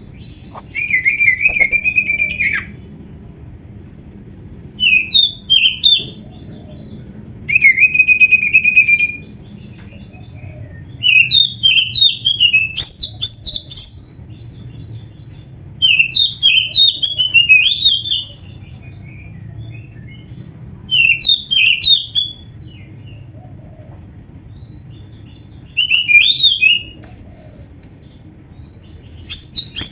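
Oriental magpie-robin singing: about eight bursts of varied whistled phrases, each one to three seconds long, separated by short pauses; a few phrases open with a held steady whistle.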